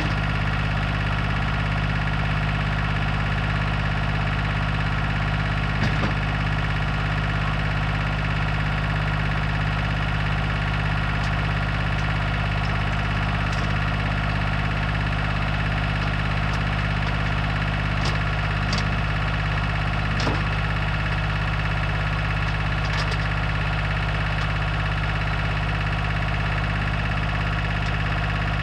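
Satoh Mitsubishi compact tractor engine running at a steady speed, with a few brief clicks and knocks.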